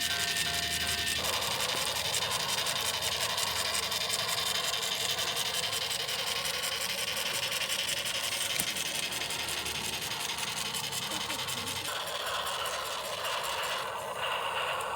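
Small battery-powered toy mechanism running: plastic gears giving a fast, even clicking over a steady whir, changing character about twelve seconds in.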